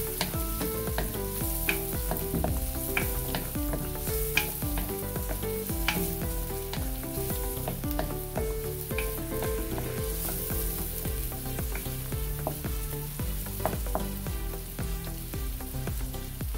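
Diced onions and garlic sizzling in melted butter and oil in a wok, stirred with a wooden spoon that knocks against the pan now and then. Background music plays underneath.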